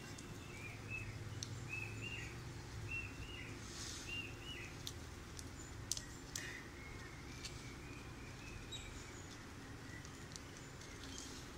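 A bird chirping in the background: short, arched chirps repeating about once a second for the first few seconds, then a thinner, more drawn-out call. A few light clicks come in the middle, over a low steady background hum.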